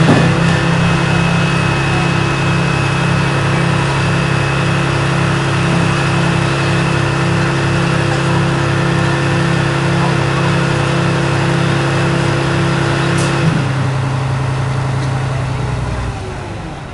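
Scania aerial ladder platform fire engine's diesel engine running steadily at raised revs with an even pulsing hum. A steady tone cuts out about three-quarters of the way through, and the engine settles quieter near the end.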